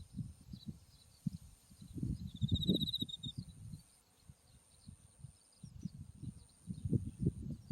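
Autumn field insects singing: a steady high-pitched trill throughout, scattered chirps, and a rapid trill of about a second near the middle. Wind buffets the microphone in loud low gusts over the insect song.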